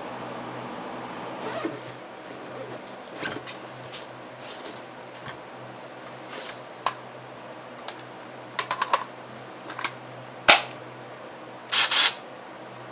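Scattered clicks and knocks of hard objects being handled, with a sharp louder knock about ten seconds in and a brief double clatter near the end, over a low steady hum.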